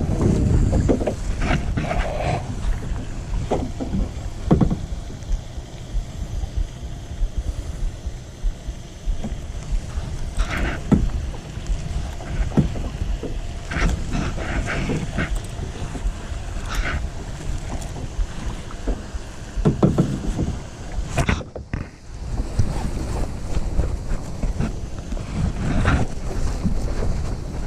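Kayak paddle strokes splashing and dripping in the water at irregular intervals, over a steady low rumble of wind on the microphone.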